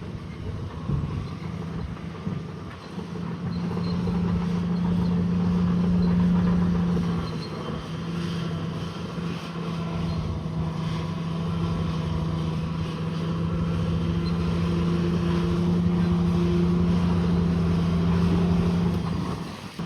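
Bulldozer's diesel engine running steadily with a low rumble, its pitch holding, dipping briefly near the end.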